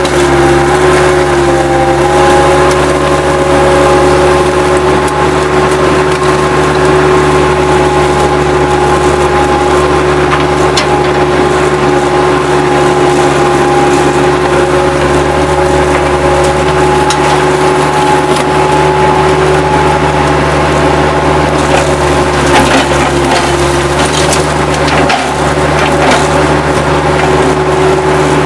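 Bobcat 763 skid steer loader's diesel engine running steadily under load with a whining hydraulic tone. Scattered sharp cracks and snaps of wood debris breaking as it is pushed and crushed.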